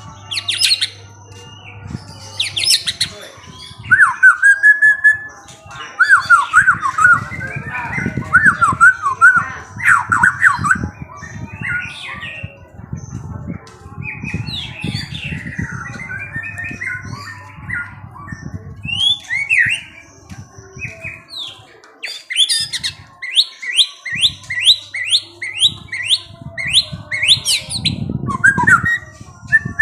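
Songbird chirping and whistling in a varied run of short notes, with a fast series of quick rising notes, about three a second, a little over two-thirds of the way in.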